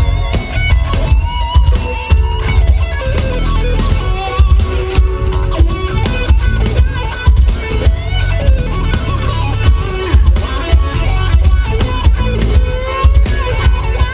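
Live band playing an instrumental section: a lead electric guitar plays a bending melodic solo over bass guitar and a steady drum-kit beat.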